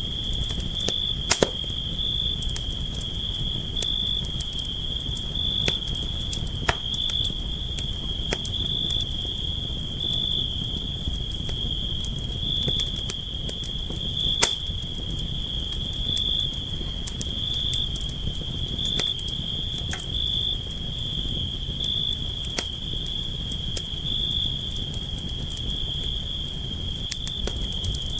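Campfire burning: a low steady rumble of flames with scattered sharp crackles and pops, two louder pops about a second in and near the middle. A steady high-pitched, faintly pulsing tone runs underneath.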